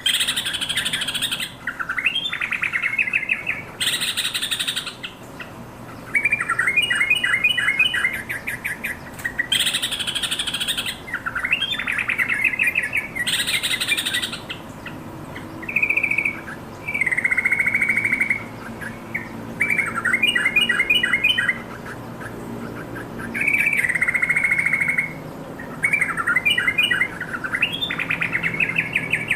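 Yellow-vented bulbul singing: short, bubbling, warbled phrases repeated every second or two with brief gaps, mixed with a few harsher, noisier notes.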